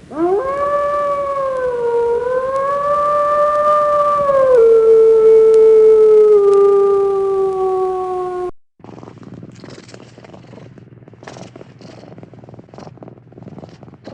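A dog howling: one long howl that rises at the start, wavers, then steps down and slowly falls before cutting off after about eight seconds. Quieter scattered clicks and rustling follow.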